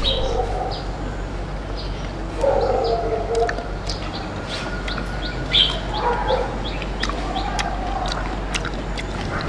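Small birds chirping over and over in short high notes, with a few lower animal calls now and then.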